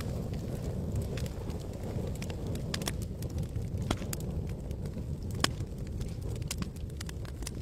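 Campfire burning: a steady low rush of flame with irregular sharp crackles and pops, one of the louder pops about five and a half seconds in.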